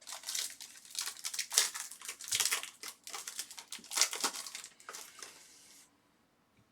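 Crinkling and rustling of trading-card pack wrappers and cards being handled, a run of crackly rustles with sharp peaks that dies away about six seconds in.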